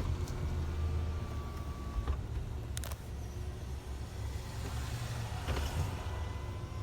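Mack LEU CNG refuse truck running with a steady low engine rumble and a thin whine coming and going over it. A sharp clank comes about three seconds in and a fainter one later.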